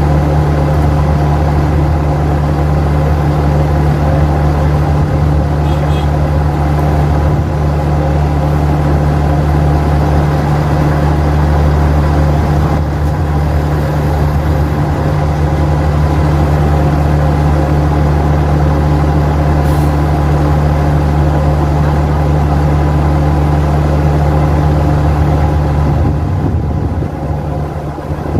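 Heavy vehicle engine running steadily, a deep, even drone that holds without revving up or down and eases off a little near the end.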